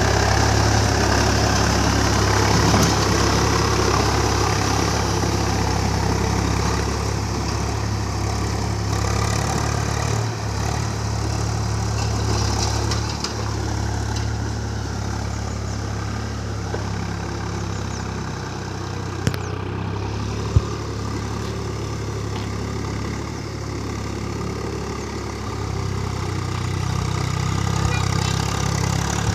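Swaraj tractor's diesel engine running steadily at a low, even throb, easing slightly mid-way and picking up again near the end. Two short sharp clicks about two-thirds of the way through.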